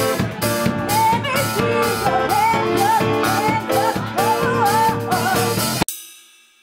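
Live rock band playing, with a male singer's voice over electric guitar and a steady drum beat. The music cuts off abruptly near the end, leaving a short ringing tail that fades away.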